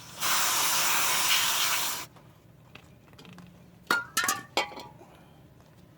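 Aerosol can of brake cleaner sprayed onto brake parts in one steady hiss of about two seconds. A few light metallic clinks follow about four seconds in.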